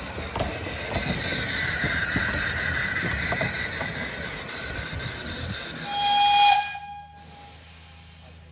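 Narrow-gauge steam train running, with quick clicks of wheels over rail joints and a wavering wheel squeal. About six seconds in a short high whistle sounds, then the sound cuts off abruptly to a low hum.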